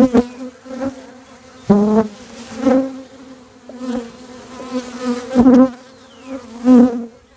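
Honey bees buzzing around an open hive: a steady hum, with single bees passing close by several times, each pass louder and bending in pitch.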